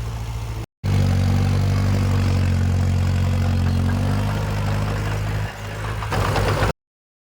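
Diesel engine of heavy earthmoving machinery running steadily. It cuts out abruptly for a moment, comes back louder and deeper, changes briefly about five and a half seconds in, then stops dead near the end.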